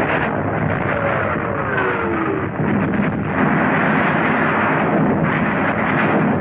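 Dense battle noise of artillery and gunfire on an old film soundtrack, with a falling whine about two seconds in.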